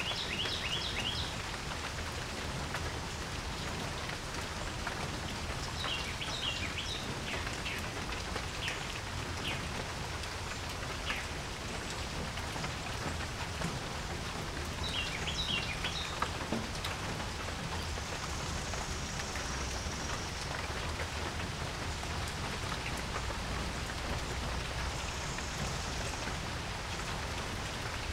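Steady rain falling on a porch. A bird calls three times over it, each call a quick run of high chirps.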